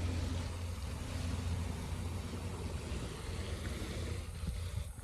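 Low, steady rumble of a passing motor vehicle, loudest at first and slowly fading.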